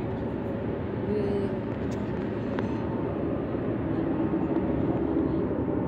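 Steady low rumble of outdoor background noise, with faint voices now and then.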